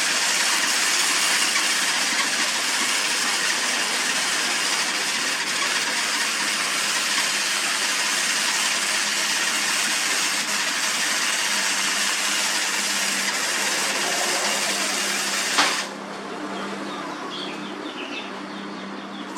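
Electric arc welding: a steady, loud sizzling crackle of the arc that runs for about fifteen seconds and then cuts off suddenly as the arc is broken.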